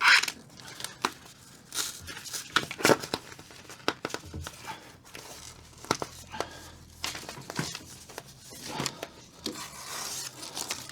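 Sheet of self-adhesive insulation/sound-deadening material and its paper backing being handled and peeled, crinkling and tearing in irregular rustles, loudest at the very start.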